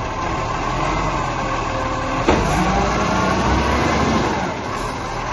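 Garbage truck running, with a single knock a little over two seconds in, followed by a faint whine that slides in pitch.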